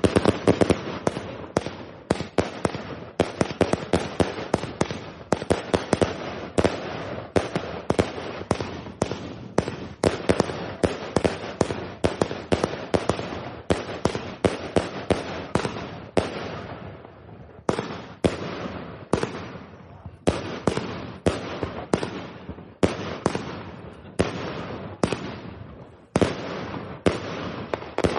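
Nordlicht "Die Hand Gottes" 239-shot firework compound cake firing shot after shot, each a sharp bang, several a second. The run is broken by brief lulls a little past halfway and again near the end.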